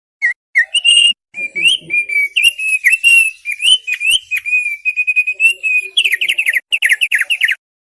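Thick-billed white-eye (opior paruh tebal) singing a fast, chattering song of quick whistled notes, ending near the end in a rapid run of short falling notes.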